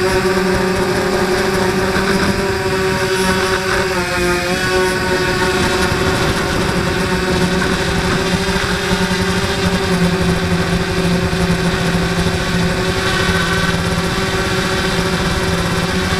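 Blade 200QX quadcopter's electric motors and propellers whining steadily in flight, with the pitch dipping briefly about four seconds in as the throttle eases.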